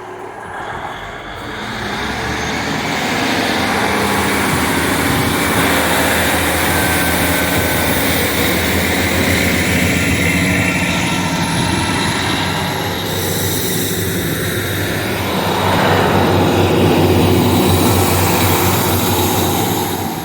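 Class 150 Sprinter diesel multiple-unit train pulling out of the station and passing close by: a steady diesel engine throb with wheel and rail noise. It grows loud about two seconds in and swells again near the end as the rear unit goes by.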